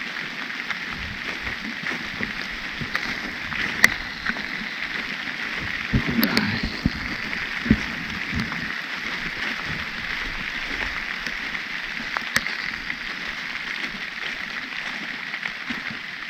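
Steady rain pattering, with many small sharp drop ticks and a few dull low thumps about six to eight seconds in.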